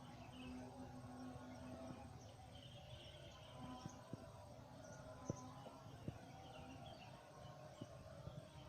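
Faint outdoor ambience with soft, scattered high chirping and a couple of soft clicks about five and six seconds in.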